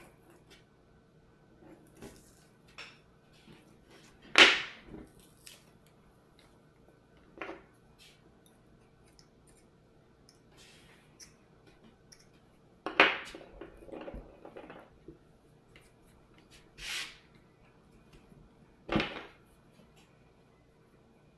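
Hand tools and small metal parts clicking and clattering while an RC crawler truck is taken apart, with a few louder knocks of tools or parts set down, about four in all.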